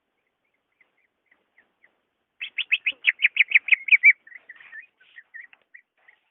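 Green leafbird (cucak ijo) singing: a few faint chirps, then a rapid run of about a dozen loud, sharp notes, roughly seven a second, trailing off into softer, broken twittering.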